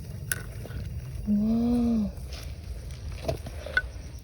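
A woman's drawn-out exclamation, a single 'wow'-like vowel that rises then falls in pitch for under a second, about a second in. Around it are a low steady rush and a couple of sharp clicks.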